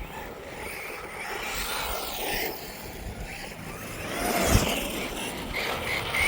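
Electric motors of radio-controlled cars whining, rising and falling in pitch as they accelerate and slow, louder about four seconds in.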